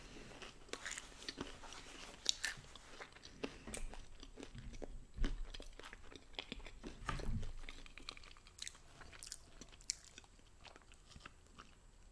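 Close-miked chewing and crunching of thin-crust pizza: a string of small crisp crunches as each mouthful is bitten and chewed, with a couple of duller low thumps about five and seven seconds in.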